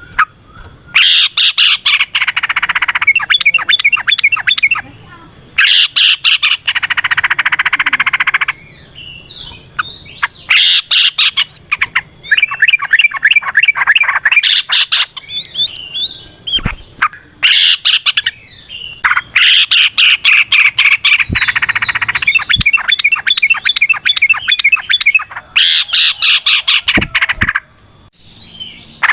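Yellow-vented bulbul singing its long, rapid chattering song in repeated bouts of a second or three, with short pauses between them.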